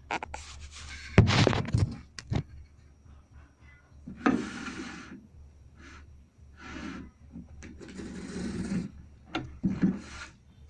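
Packaging of a hole saw set being handled and opened: rubbing and scraping noises in several short passages, with a sharp knock about a second in.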